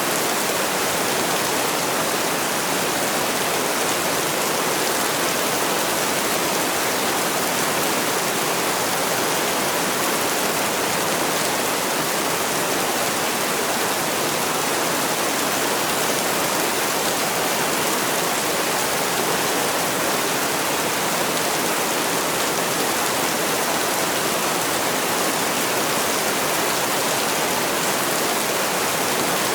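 Heavy rain falling steadily: a dense, even hiss that does not change, with no separate drops, thunder or music standing out.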